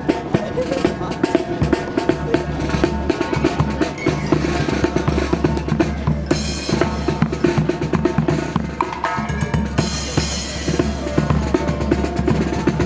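Marching brass band playing with loud, busy snare and bass drums under the horns. Strong wind rumbles on the microphone throughout.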